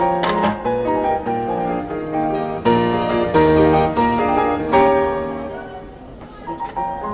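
Piano music playing, a melody of struck notes over chords, growing quieter near the end before new notes come in.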